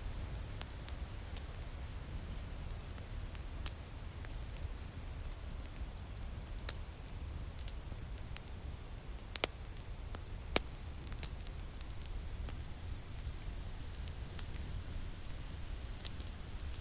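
Fire crackling, with scattered sharp pops, the two loudest a second apart just past the middle, over a steady low rumble of winter wind.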